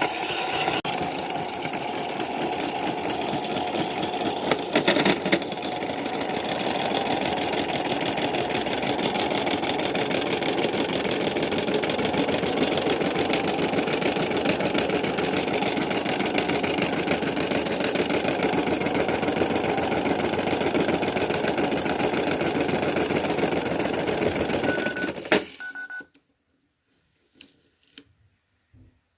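Washing machine running at speed, a loud steady mechanical drone with a fast fine rhythm. A short beep comes near the end, and then the noise cuts off abruptly.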